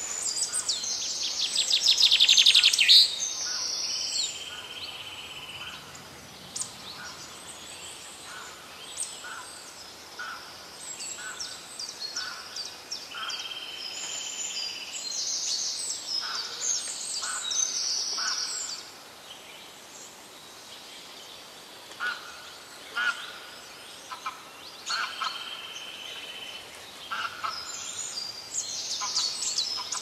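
Wild birds calling and singing in the trees: many short, high chirps throughout, a loud, fast trill about two seconds in, and a held, even note that comes back three times.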